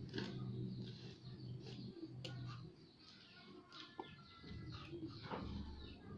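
Birds chirping faintly in the background, with a low steady hum that stops about two and a half seconds in.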